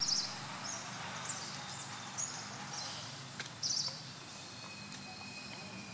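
Outdoor ambience with small birds giving short, high chirps every second or so, loudest at the start and about two-thirds of the way in. A faint steady high tone joins later on.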